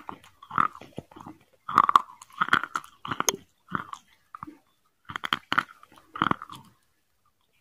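A person chewing and biting into chicken biryani, with crunches and sharp clicks in irregular bursts. It stops near the end.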